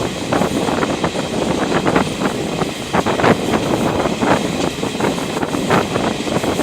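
Train running along the track: a steady rumble with frequent, irregular clacks and knocks from the wheels on the rails.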